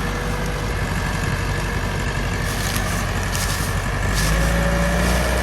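Tractor diesel engine running hard while hauling a heavy sugarcane trolley. It grows louder about four seconds in, with a faint rising whine.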